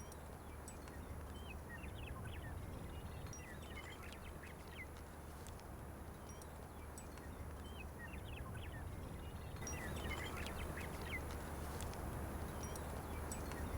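Birds calling in repeated clusters of short, quick chirps over a steady low hum.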